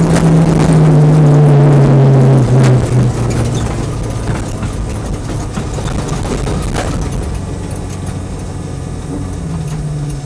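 Peugeot 205 rally kit car's engine heard from inside the cabin, loud and at high revs for about three seconds, then dropping to a lower, quieter note. A few sharp clicks come through, and the revs pick up again near the end.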